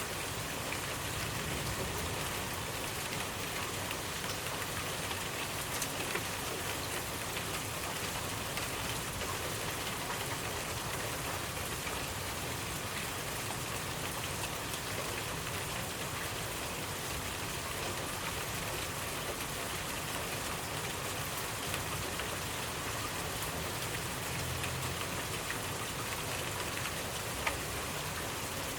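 Steady rainfall pattering on a surface, a continuous hiss with scattered individual drop ticks and one slightly sharper drop near the end.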